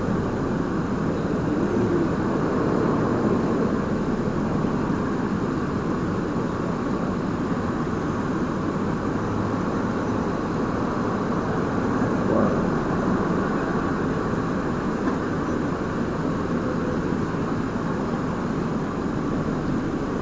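Steady drone of a running vehicle, an even noise with no distinct events.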